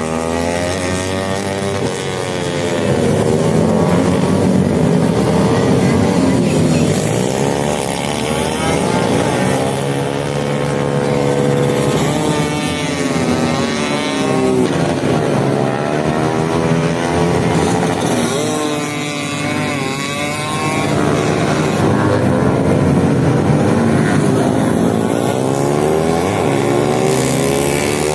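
Several motorcycle engines revving and passing one after another, their pitch rising and falling in overlapping sweeps.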